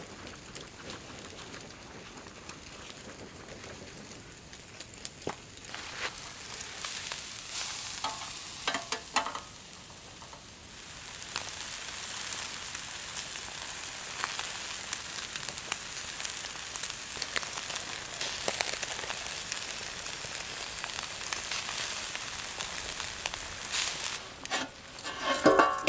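Food sizzling and frying in a pan, a steady crackling hiss that grows louder about eleven seconds in, with a few stirring clicks and a brief louder clatter of the pan or utensil near the end.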